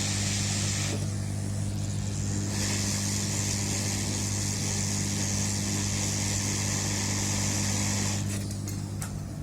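Hot air rework station running, a steady low hum under a hiss of blowing air. The air hiss drops away about a second in, comes back a second and a half later, and stops near the end.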